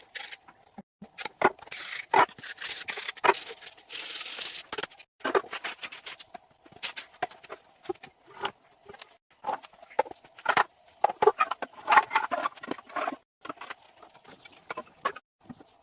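Irregular knocks, clicks and short scrapes of wood being handled and worked with hand tools, with one longer hissing scrape about four seconds in and several abrupt breaks.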